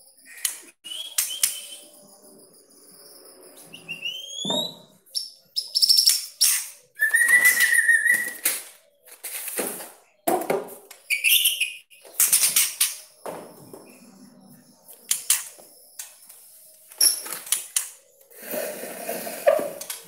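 Caged white-rumped shama (murai batu) giving a run of sharp whistled calls and chirps that slide up and down in pitch, mixed with quick wing flutters as it hops about its cage.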